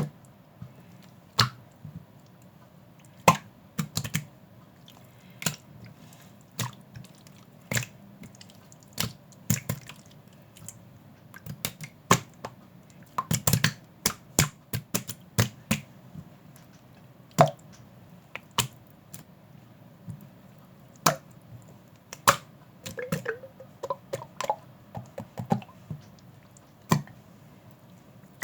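Irregular light clicks and taps, some single and some in quick clusters of several.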